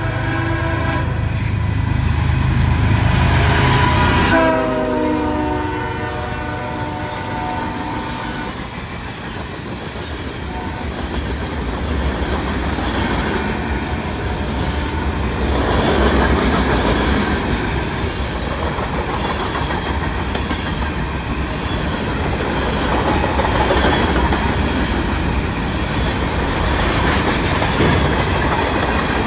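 CSX diesel locomotive's five-chime Nathan K5HL air horn blowing, weak-sounding, its chord dropping in pitch as the locomotive passes a few seconds in. Then the train rolls by, wheels clattering over the rail joints with some wheel squeal.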